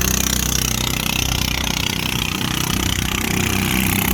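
Small boat's engine running steadily under way, loud and rough-sounding, with a rush of wind and water hiss over it.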